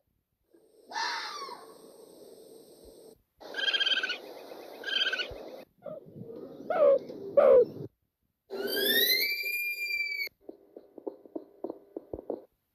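A string of different animal calls, one after another with brief silences between them: several pitched cries, one sliding upward in pitch, then a quick run of short ticks near the end.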